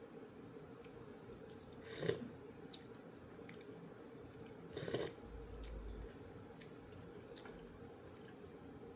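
Quiet eating of ramyeon: chewing and small mouth noises with a few faint clicks, and two louder noisy bursts about two and five seconds in, over a steady low hum.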